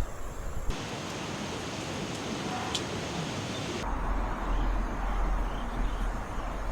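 Steady rushing outdoor noise of wind and flowing river water. Its character changes abruptly twice as the shot cuts, and a deep wind rumble on the microphone comes in for the second half.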